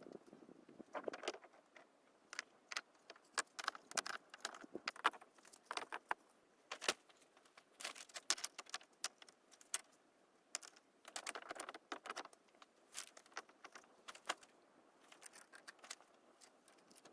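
Irregular sharp clicks and clinks of hard objects being handled, with short scraping rustles about a second in and again around eleven to twelve seconds.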